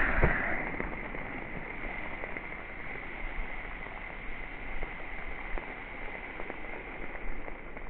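Hissing and fizzing of soda spraying from cans burst by a .22 magnum bullet, fading over the first second and then holding steady, with a few faint clicks and patters.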